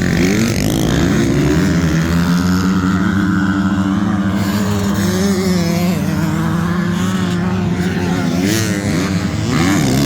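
Motocross dirt bike engines running hard, their pitch holding for a few seconds and then rising and falling with the throttle.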